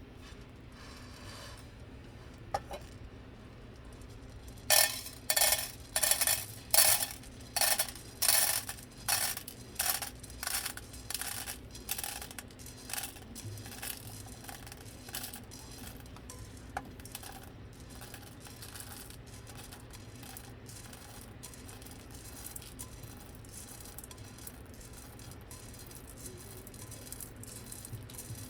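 Coffee beans rattling as they are shaken by hand in a roaster, in a regular rhythm of about one and a half shakes a second that starts loud and fades away over about ten seconds. A few stray clicks follow.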